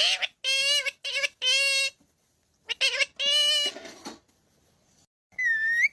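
Parrot giving a run of short, high, nasal-sounding calls, about six in quick succession, then a single whistled note near the end.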